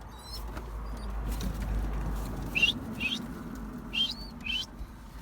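Birds in a pigeon loft chirping: a run of short, high chirps, about four in the second half, over a low rumble.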